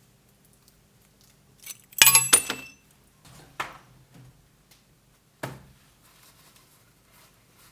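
A sharp clink with a brief ringing clatter of hard objects about two seconds in, glass-like in tone, then two fainter knocks.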